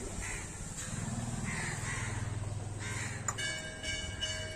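A crow cawing three times, about a second and a half apart. About three seconds in a bell is struck once and keeps ringing.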